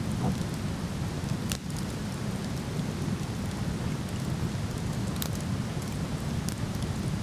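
Waterfall rushing steadily with a deep, even roar, while a wood fire gives a few sharp crackles and pops over it.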